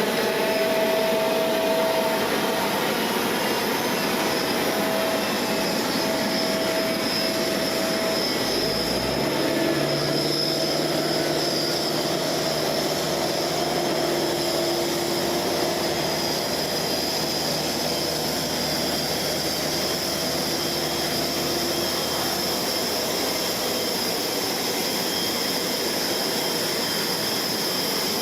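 Steady jet-engine whine and rush of airport apron noise, with a lower engine hum that comes in about a third of the way through and drops out some seconds before the end.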